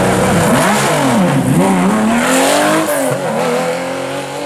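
Porsche 911 rally car's air-cooled flat-six revving and accelerating away from the stage start, its pitch dipping and climbing sharply as it launches, then dropping again at a gear change before climbing as the car pulls away and fades slightly.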